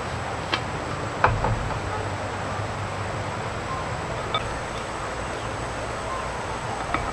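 A steady hiss with a few light knocks and clicks.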